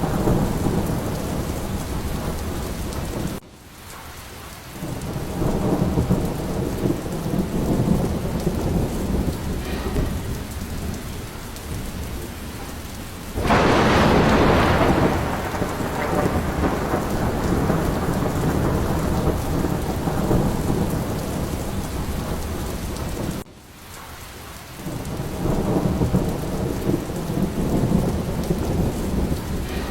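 Steady heavy rain with low rolling thunder rumbling under it. About 13 seconds in, a sharp, loud thunderclap fades over a few seconds. Twice the storm sound drops off suddenly and builds back up over a couple of seconds.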